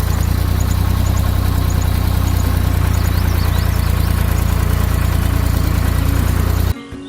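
A tractor engine idling steadily with a fast, even chug, cutting off abruptly near the end.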